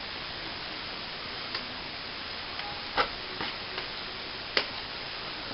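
Scattered sharp clicks and taps of plastering tools working at a plasterboard ceiling patch, two louder ones about three and four and a half seconds in, over a steady hiss.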